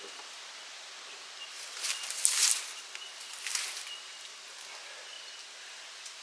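Steady outdoor background hiss with a faint recurring high chirp, broken by two short bursts of rustling: a louder one about two seconds in and a smaller one about three and a half seconds in.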